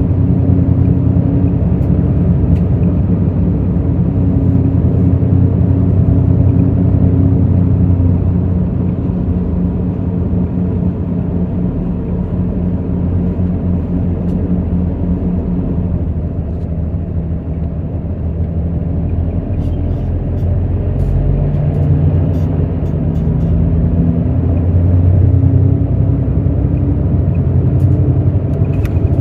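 Hino J08E-VD 7.7-litre inline-six diesel of a Hino city bus running under way, heard from inside the bus. The engine note holds steady, falls away a little past halfway, then climbs and grows louder again near the end as the bus pulls.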